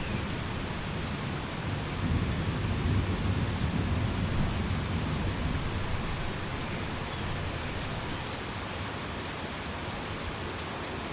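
Heavy rain falling steadily, with a low rumble of thunder that swells about two seconds in and slowly dies away.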